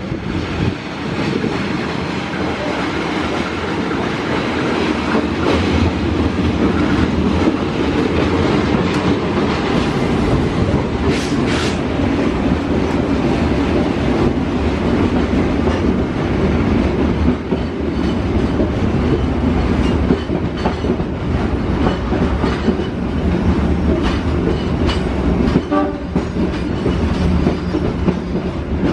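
Passenger train on the adjacent track arriving and rolling slowly past close by, its wheels clattering over the rail joints with a steady rumble. The sound builds over the first few seconds as the locomotive comes alongside.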